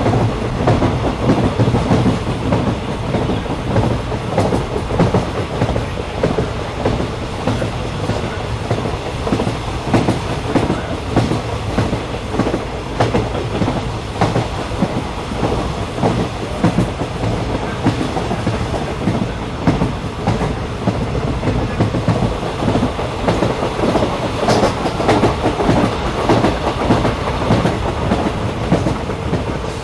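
Train running along the track: a steady rumble with a quick, continuous clatter of wheels over the rails.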